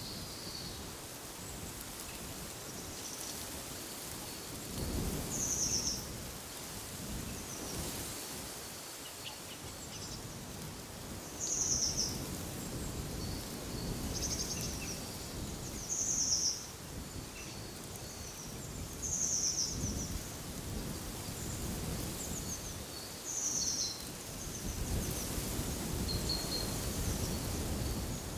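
Birds singing in a wooded area, one bird repeating a short high call about every four to five seconds, with fainter chirps between. Wind gusts bring low rumbling surges, strongest near the end.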